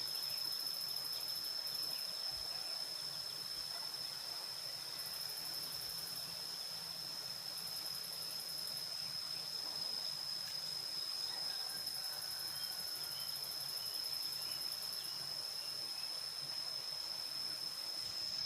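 Insects, likely crickets, trilling: one steady high-pitched trill, joined now and then by stretches of faster, higher pulsed chirping that start and stop.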